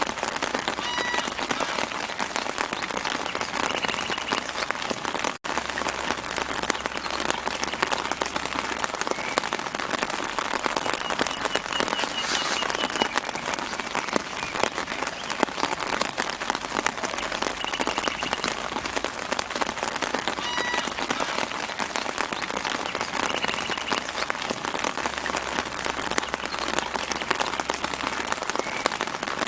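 Steady light rain pattering on leaves, a dense even patter of drops, with small birds chirping briefly in the background every few seconds. The whole sound cuts out for an instant about five seconds in.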